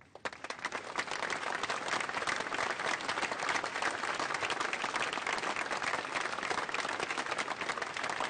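An audience applauding: dense, sustained clapping that starts suddenly and holds steady.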